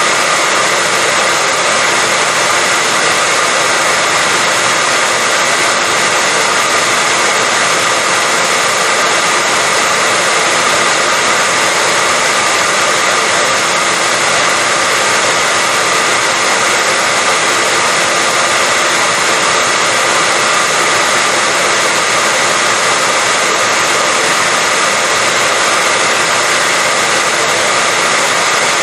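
Hair dryer running steadily: an even rush of air with a faint high whine, holding the same level throughout.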